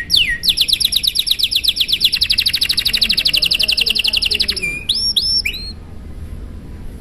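Domestic canary singing: a few sweeping whistled notes, then a long, fast trill of repeated notes at about ten a second lasting about four seconds, then two short rising notes before the song drops off.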